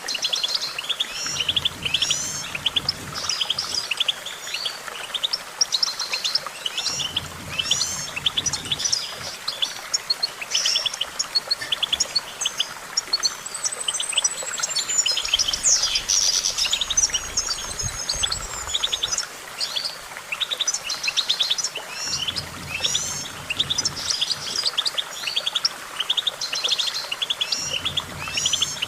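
European goldfinch singing: a continuous, rapid twittering run of chirps and trills, with a longer arching, gliding note about halfway through.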